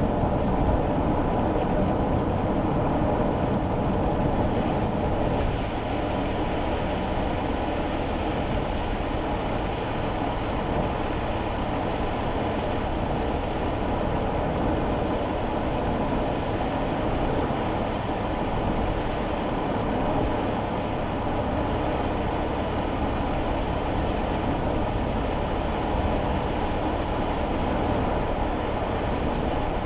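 Steady road and engine noise heard inside a kei car's cabin while driving on a wet road in the rain, a dense low rumble with hiss above it. It eases slightly about six seconds in.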